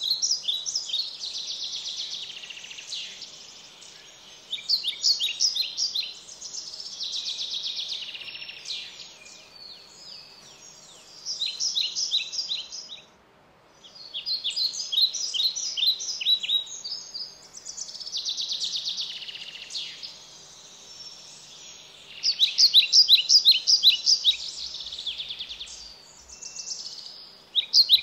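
A songbird singing: repeated phrases of quick chirps and rapid trills, each a second or a few seconds long, with short pauses between them.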